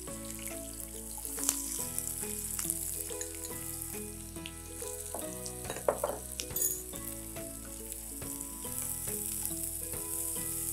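Sliced shallots and green chillies sizzling in hot sesame oil in a frying pan, with a steady hiss and small crackles, stirred with a wooden spatula toward the end.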